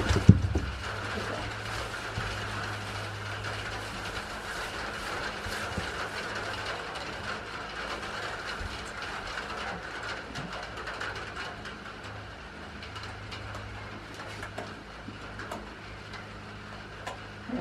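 Steady rain pattering and dripping, with many small ticks, over a low steady hum; a single thump right at the start.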